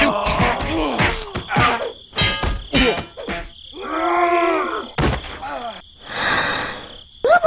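Dubbed cartoon fight sound effects: squeaky, pitch-bending cartoon-character cries mixed with whacks and thuds. A single sharp knock comes about five seconds in, then a short whoosh.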